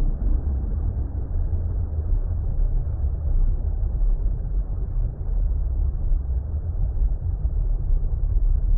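Deep, muffled underwater-style water rumble: a steady low noise with no rhythm or events, as in a relaxation soundscape. A held ambient music tone fades out in the first moment.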